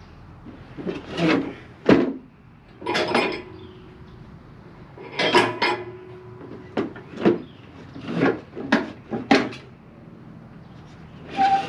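Irregular clanks and knocks of metal parts and tools being handled while a riding mower's deck is worked on, about ten in all, some leaving a brief metallic ring.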